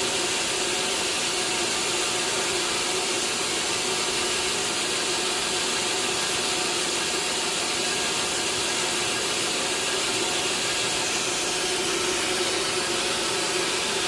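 Sawmill machinery running steadily, a continuous even mechanical drone with a hissing edge.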